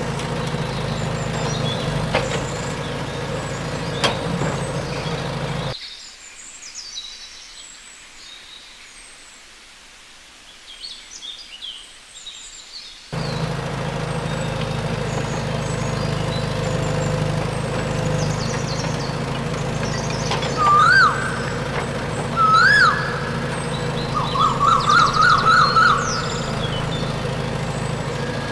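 Small electric motor of a DIY mini construction machine running with a steady hum, stopping for about seven seconds and then starting again. Birds chirp in the background, and near the end come several loud, short, rising-and-falling whistled chirps.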